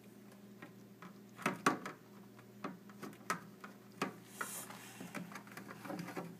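Scattered light knocks and clinks of bottles and food containers being handled and set down on refrigerator shelves, about a dozen irregular taps, with a brief rustle about four seconds in.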